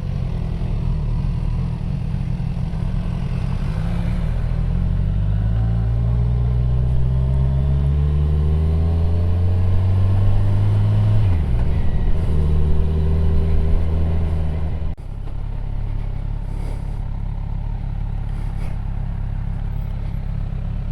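Motorcycle engine pulling away up a lane, its note rising steadily for several seconds, then dropping sharply about eleven seconds in as it shifts up a gear and running on at a steady note. The sound changes abruptly about fifteen seconds in.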